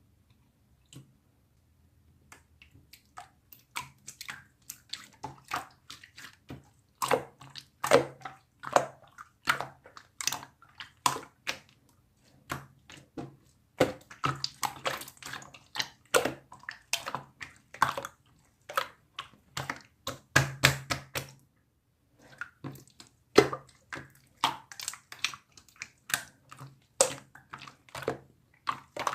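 Slime being squished and pressed by hand, making irregular wet clicks and pops, with a couple of brief pauses.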